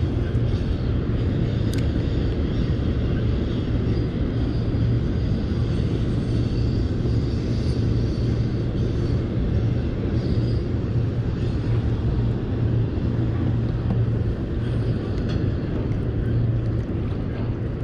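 Steady, unbroken low rumbling noise that holds at one level throughout, with no distinct events.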